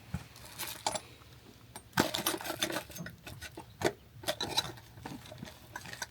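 Irregular light clicks, taps and knocks, like objects being handled, over a faint low hum.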